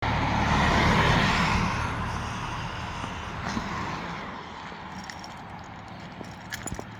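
A car's engine and tyre noise, loudest about a second in, then fading away over the next few seconds. A few faint clicks follow near the end.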